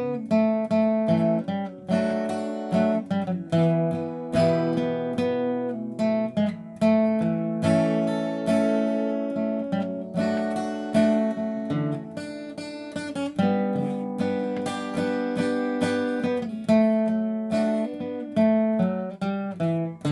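Acoustic guitar playing a slow melody, single plucked notes and chords each struck and left to ring out.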